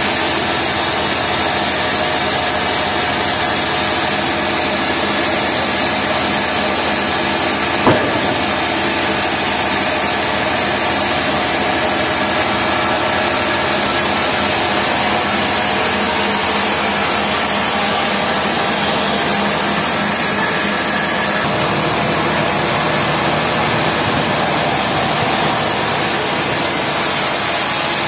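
Sawmill machinery running steadily, with one sharp knock about eight seconds in.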